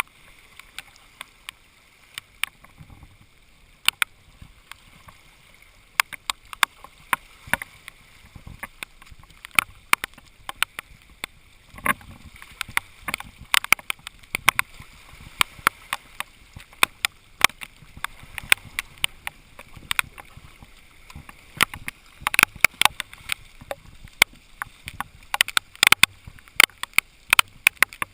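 Raindrops striking close to the microphone: many sharp, irregular ticks over a steady hiss. The ticks come thicker near the end.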